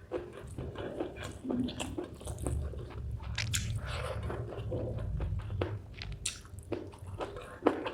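Close-miked chewing of spicy chicken gizzard with rice: wet mouth smacks and irregular crunchy clicks as the firm gizzard meat is bitten and chewed.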